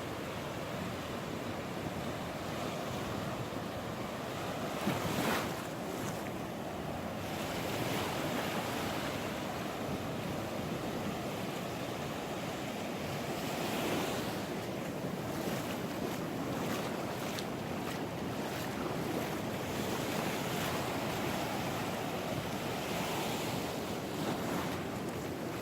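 Ocean surf washing onto the beach and rocks, a steady rush that swells and eases every few seconds, with wind buffeting the microphone.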